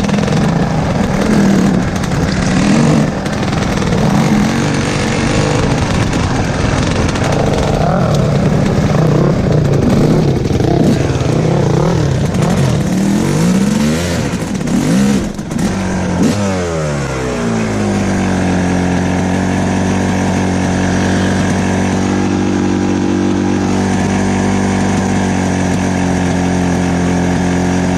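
Dirt bike engine running, its revs rising and falling. About sixteen seconds in the revs drop and it settles to a steady idle.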